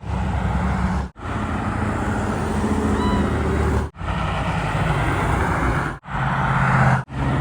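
Classic car engines rumbling low as the cars drive past in a parade, heard in several short segments that each cut off abruptly.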